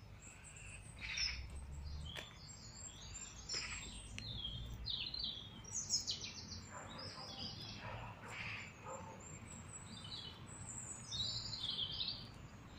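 Small songbirds chirping and singing: a string of short, high-pitched calls and song phrases, one after another.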